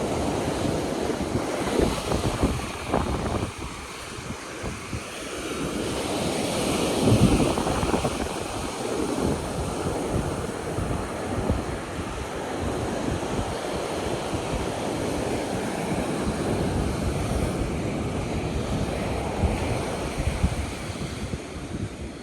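Ocean surf washing onto the beach, mixed with wind buffeting the microphone, the noise swelling and easing.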